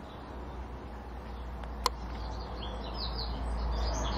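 Small birds chirping in quick short calls, thickening in the second half, over a steady low rumble, with one sharp click a little under two seconds in.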